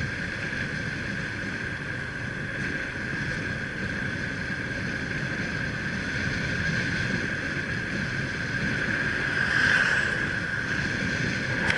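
An engine running steadily under way, with rushing wind noise and a constant high whine.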